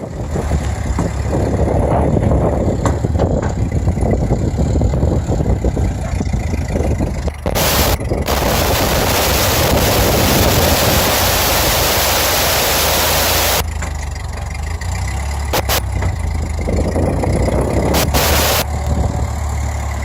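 Ford 8N tractor's four-cylinder flathead engine running steadily under load. A loud rushing hiss covers it for about five seconds in the middle, and again briefly near the end.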